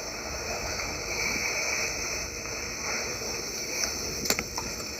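Steady rushing hiss with a couple of faint clicks near the end.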